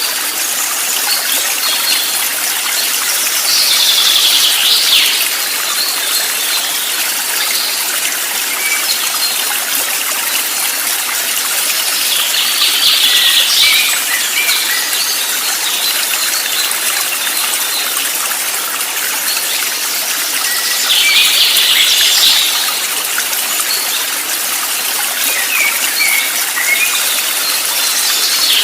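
Stream water rushing and trickling steadily, with short bursts of bird twittering that recur about every eight to nine seconds.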